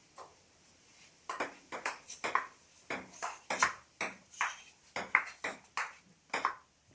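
Table tennis rally: a plastic ball clicking back and forth off the table and the bats, a quick run of sharp ticks, often in close pairs, starting about a second in and stopping just before the end.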